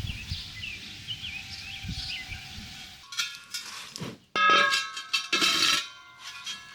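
Birds chirping over a quiet outdoor background. Then, from about three seconds in, loud metallic clanging with long ringing tones, twice: bare sandblasted steel wheel rims struck and set down on a workbench.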